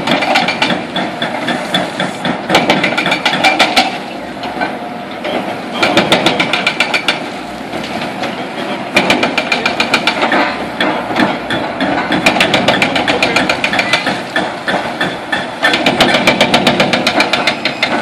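Excavator-mounted hydraulic breaker hammering concrete in about five bursts of rapid blows, with the excavator's diesel engine running between them.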